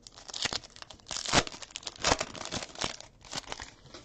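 A foil trading-card pack wrapper being torn open and crinkled: a run of crackly rips and rustles, the loudest about a second and a half in.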